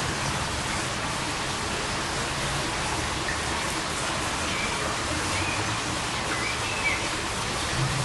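Steady hiss of background noise, with a few faint, short, high chirps in the second half.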